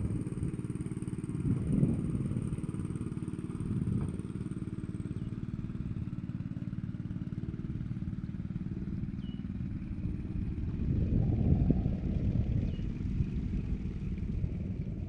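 A small hand-guided paddy tractor's engine runs steadily under load in deep mud. It grows louder briefly about two seconds in, and again for a longer stretch near the end.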